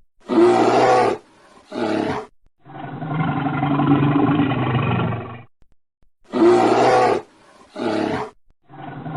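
Big cat roaring: two short roars, then one long drawn-out roar of about three seconds. The same sequence comes again near the end.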